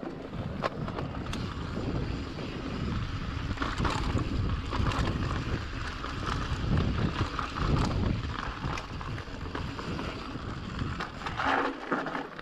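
Mountain bike rolling along a trail, with wind buffeting the microphone and scattered clicks and rattles from the bike.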